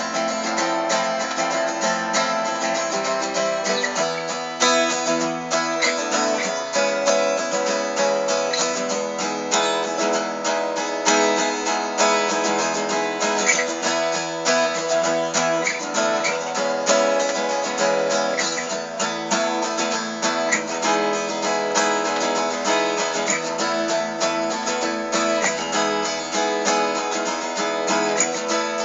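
Acoustic guitar strummed steadily in a rhythmic chord pattern: an instrumental stretch of a folk song with no singing.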